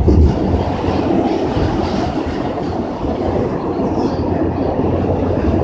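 A New York City subway car running on the track, heard from inside the car: a steady, loud rumble of wheels on the rails.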